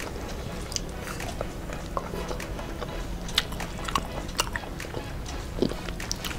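Close-miked eating: two people chewing rice and curry eaten by hand, with scattered short, wet mouth clicks and smacks.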